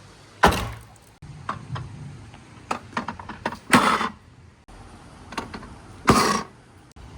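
Marbles rolling and knocking along a marble run: three loud clacks with brief rattles about half a second, four and six seconds in, and lighter clicks between them.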